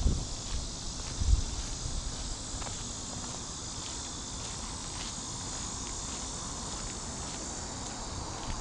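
Steady high, even buzz of an insect chorus, with a couple of low thumps from footsteps in the first second and a half.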